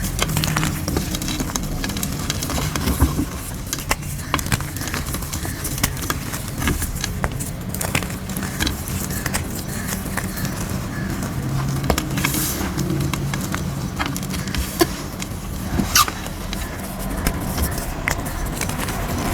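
Chunks of grey gym chalk crumbling and cracking between fingers: irregular crisp crackles and snaps, a few sharper ones standing out, over a steady low hum.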